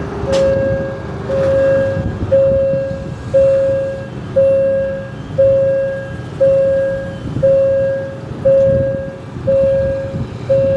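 Railway level-crossing warning alarm beeping steadily, about one beep a second, over a low rumble of a passing train or vehicle.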